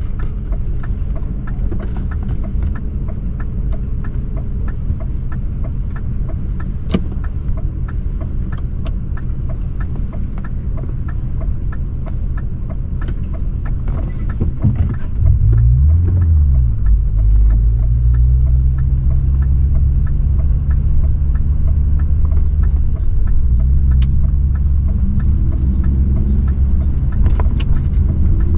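A BMW 540i's 4.4-litre V8 exhaust while driving, a low steady drone. About halfway through the revs briefly rise and fall, as in a gear change, and the drone then runs louder. Scattered light ticks sound throughout.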